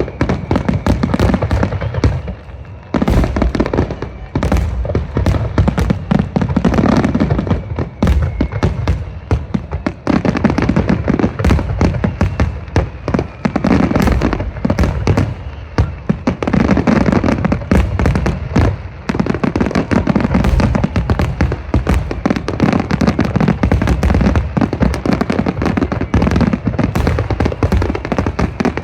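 Aerial fireworks display: a rapid, nearly continuous barrage of shells bursting, many sharp bangs in quick succession with a deep low rumble, easing off briefly a few times.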